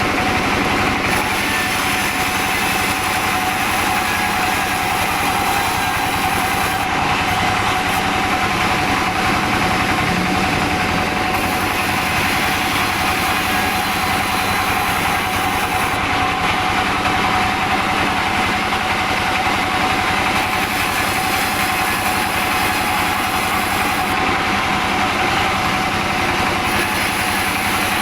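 Sawmill saw machinery running steadily at a constant level, with a steady whine over a broad mechanical noise, while sawing albasia wood into boards.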